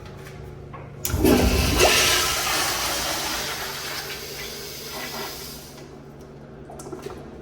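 Toilet flushing: a sudden loud rush of water about a second in, fading away over the next few seconds.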